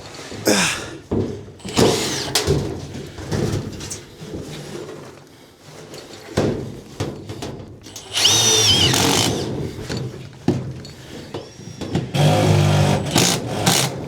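Cordless drill driving screws into sheet-metal ductwork in several short bursts, with knocks in between. The longest run, about eight seconds in, carries a high motor whine, and another run comes near the end.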